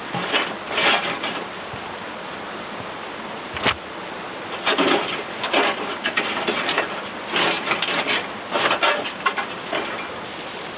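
Wet firewood being broken and split by hand: several crunching, splintering snaps and one sharp knock about four seconds in, over the steady hiss of rain.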